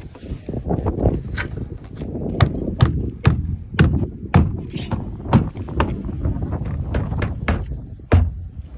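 Irregular sharp knocks and clicks, about fifteen, as a car door's plastic trim panel is pushed and tapped back into its clips, over a steady low rumble.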